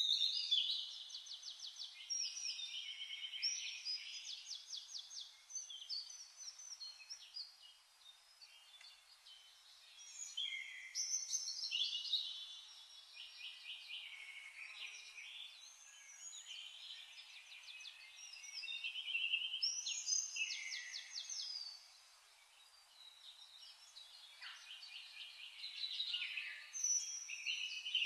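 Songbirds singing: runs of rapid trilled and chirping phrases, coming in louder spells every several seconds.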